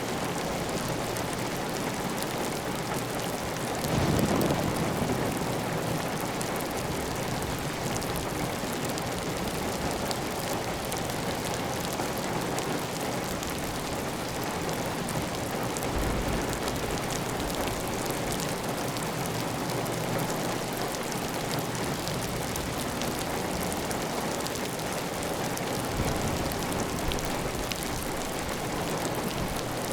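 Heavy, steady rain on a clay tile roof, with water running off the roof edge. A brief louder surge about four seconds in.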